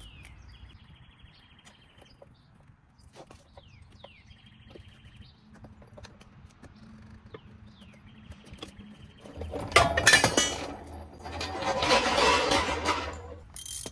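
Metal clanking, scraping and rattling for a few seconds, starting about nine seconds in, as the rear toe-arm bucket is worked loose and lowered out of the car's rear suspension. Before that, a bird calls faintly three times.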